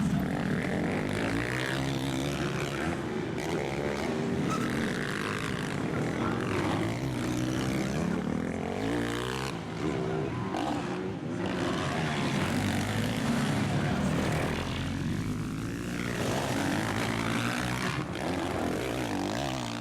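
Motocross bike engines racing, revving up and down in pitch, with more than one engine heard at once.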